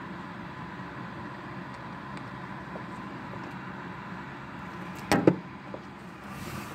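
Steady hiss of heavy rain, broken about five seconds in by two sharp knocks a split second apart.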